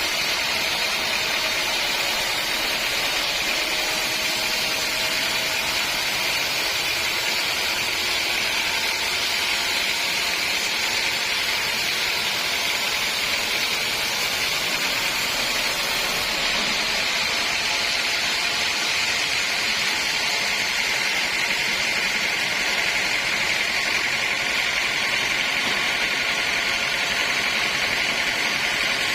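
Sawmill saw running steadily, a constant high-pitched whine over mechanical noise with no breaks.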